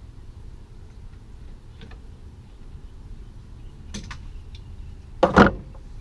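Car parts and tools being handled during radiator work: a few faint clicks, then a brief loud double clunk a little past five seconds in.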